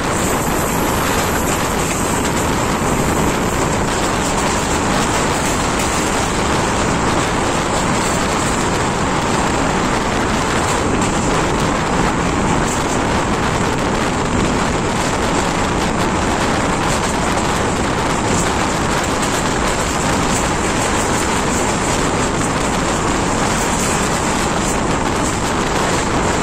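S14 diesel multiple unit running steadily at speed, heard from outside a carriage window: a loud, even rush of wheels on rail mixed with wind.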